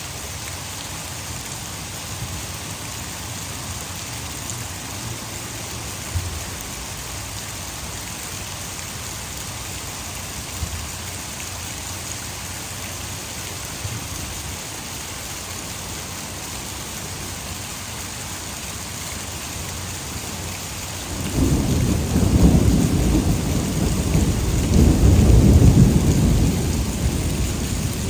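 Heavy rain falling steadily, mixed with the rush of water falling from a nearby hydroelectric dam. About 21 seconds in, a long, loud rumble of thunder starts suddenly, builds to its loudest a few seconds later and is still rumbling near the end.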